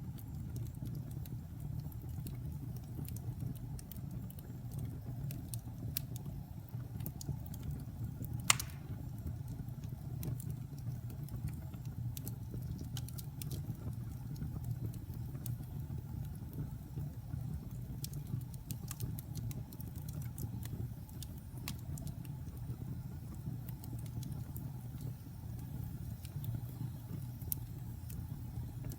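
Wood fire burning in a fireplace: a steady low rumble of flames with frequent small crackles. One sharper pop comes about eight and a half seconds in.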